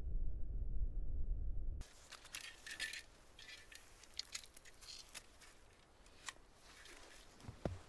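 Low, gusty wind rumble on the microphone, which cuts off abruptly about two seconds in. After the cut come scattered small clicks, clinks and crinkles of gear being handled.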